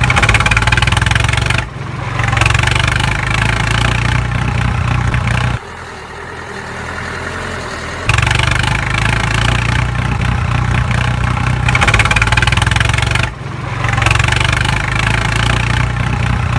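Engine running steadily with a low hum. It drops away briefly about a second and a half in, goes quieter for a couple of seconds around the middle, and drops again near the end, each change sudden.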